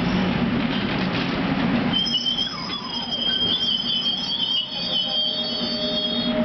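Passenger train rolling slowly into the station, with a low rumble, then from about two seconds in its brakes squeal in several high, held tones as it slows.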